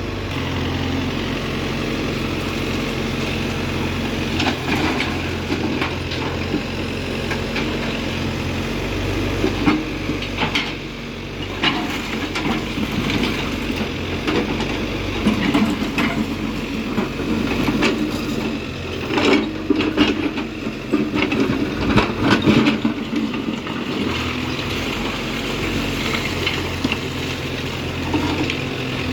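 Case backhoe loader's diesel engine running steadily, with knocks and clattering of demolition rubble against the bucket and truck bed. The clattering comes in bouts about ten seconds in and is heaviest between about 15 and 23 seconds in.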